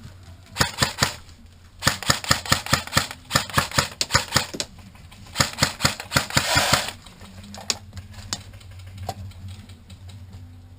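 Airsoft guns firing in three quick strings of shots, about five a second, then a few single shots.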